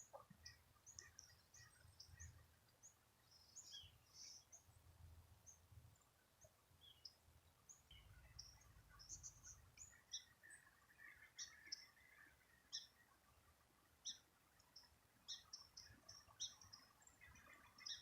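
Faint chirps of small birds: many short, high calls scattered throughout, over a faint low rumble that comes and goes.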